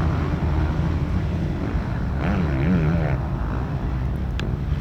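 Motocross motorcycle engines running, one swinging up and down in revs about halfway through.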